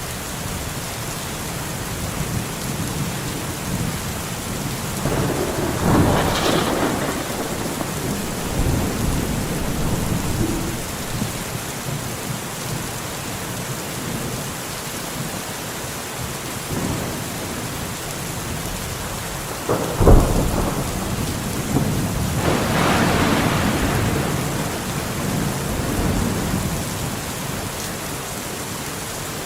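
Steady rain falling with thunder: a rolling rumble about six seconds in, then a sharp crack about twenty seconds in followed by a longer rumble.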